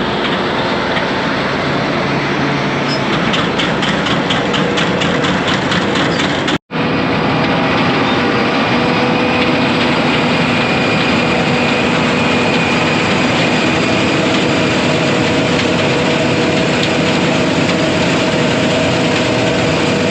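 Combine harvester running steadily while harvesting wheat: a dense mechanical drone with several steady whining tones. The sound drops out for an instant about six and a half seconds in, then carries on.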